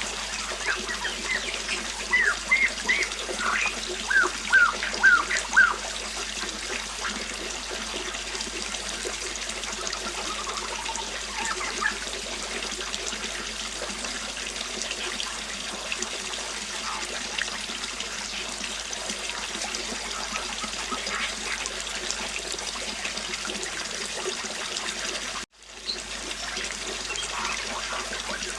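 Flowing river water running steadily, with a bird giving a quick run of short, sweeping chirps in the first few seconds and fainter calls later. Near the end the sound cuts out for an instant.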